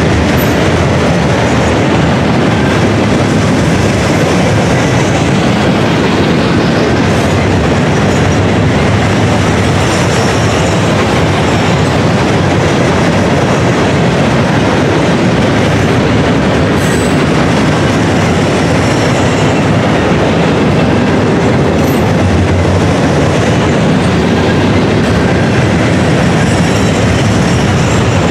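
Freight train of gondola cars rolling past close by: a steady, loud rumble and rattle of steel wheels on the rails, with a few brief faint high wheel squeals.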